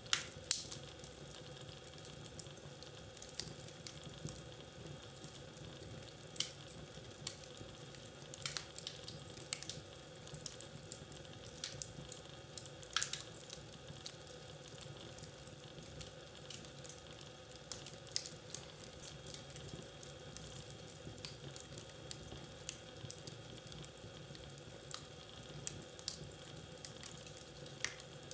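Wood fire crackling in a fireplace: irregular sharp pops and snaps over a steady low hiss, with a few louder pops in the first half.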